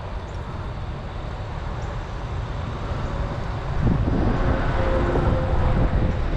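Steady low outdoor rumble, with a vehicle passing that grows louder from about four seconds in.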